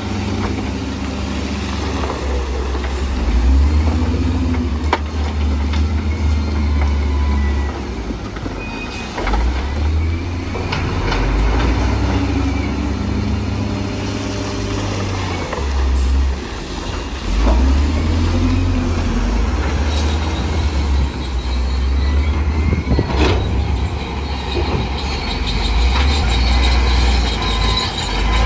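Bulldozer's diesel engine working under load, swelling and dropping every few seconds as it pushes, with a few sharp metal clanks.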